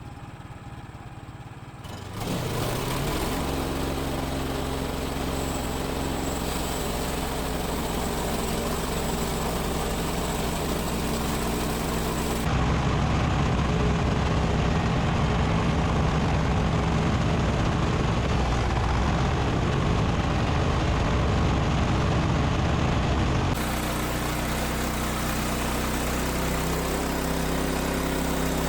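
Woodland Mills HM130MAX sawmill's gasoline engine running steadily just after starting, coming up to speed about two seconds in. It gets louder for about ten seconds in the middle, then settles back a little.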